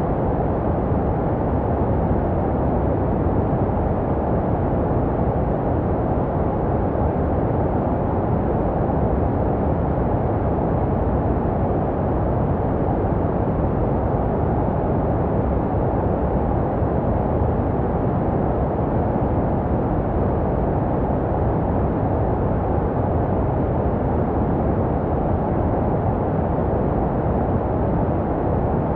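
Continuous baby sleep white noise, muffled so that it is deep and rumbly with little hiss. It stays perfectly steady and is made to resemble the sounds heard inside the womb.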